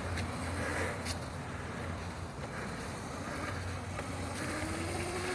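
Razor MX350 electric dirt bike's motor whining as the bike rides along, the whine rising in pitch near the end as it speeds up.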